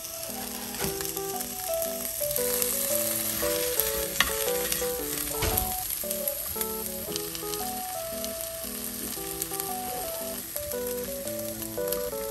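Chicken pieces and asparagus sizzling steadily in oil in a frying pan, with a couple of sharp taps as wooden chopsticks turn the food. Soft background music with plinking notes plays underneath.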